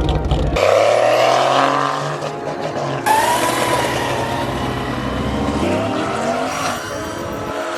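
Car engines revving hard and accelerating, the pitch climbing, in a few short clips cut together, with some tyre squeal.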